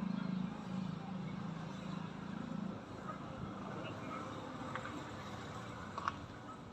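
Outdoor background with a low rumble through the first half, then a couple of short, sharp bird chirps about five and six seconds in.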